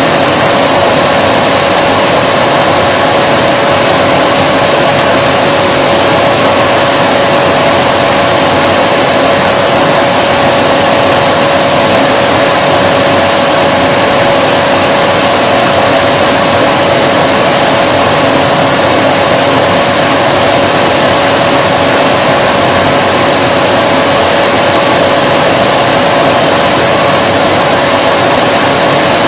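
Vacuum cleaner motor running continuously: a steady rush of air with a constant mid-pitched hum.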